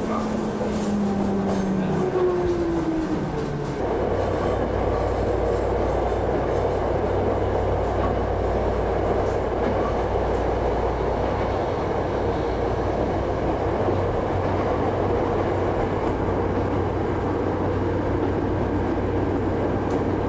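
Electric train running on the rails, heard from inside the carriage. A falling whine in the first few seconds gives way, about four seconds in, to a steady low rumble with a hum.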